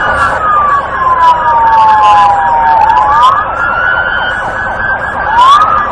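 American police car siren sounding on wail: the pitch climbs quickly, then falls slowly, about one cycle every three seconds.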